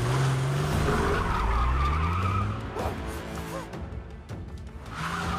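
Porsche 911 sports car taking off hard: the engine revs and climbs through the gears while the tyres squeal, easing off past the middle and picking up again near the end. Film score plays underneath.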